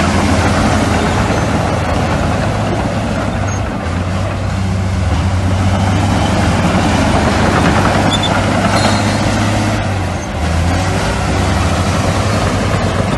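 Heavy diesel earthmoving machinery running steadily, a low engine drone under a broad clattering noise. The level dips briefly twice.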